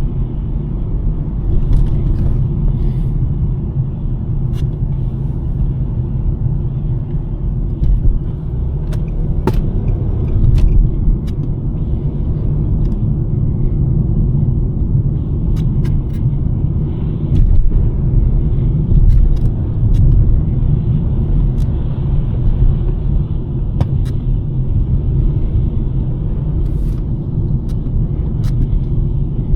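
Steady low rumble of a 2023 Nissan Sentra driving on a snowy road, with scattered faint ticks.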